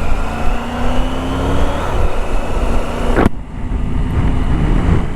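Motorcycle engine pulling away and accelerating under heavy wind noise on the microphone. Its pitch climbs, breaks briefly about three seconds in at a gear change, then climbs again.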